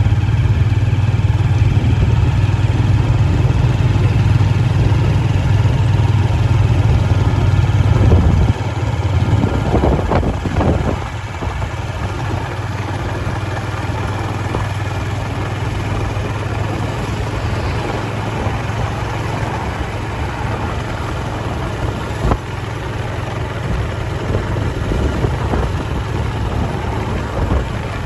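Small motorbike engine running with a steady low hum. The hum drops sharply about eight seconds in and goes on more quietly.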